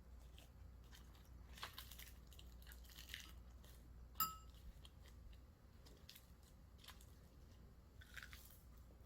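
Quiet kitchen handling sounds: scattered faint clicks and crunches, and one short ringing clink a little after four seconds in, over a low steady hum.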